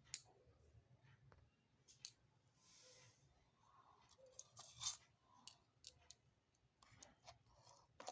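Faint, scattered clicks and taps of tiny miniature cooking utensils being handled, with a soft scraping hiss about three seconds in and the sharpest tap a little before five seconds.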